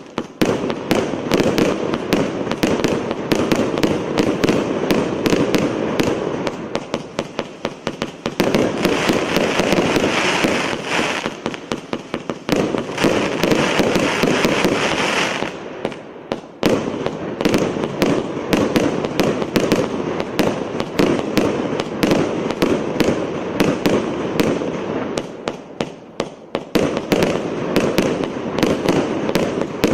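A 600-shot, 1-inch consumer fireworks cake firing a rapid, near-continuous stream of shots and bursts, with a few brief lulls between volleys.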